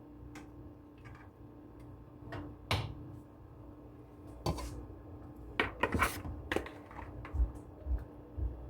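Cookware clattering while cooking: scattered knocks and clinks of a pot and utensils, with a cluster of louder clatters a little past halfway, over a faint steady hum.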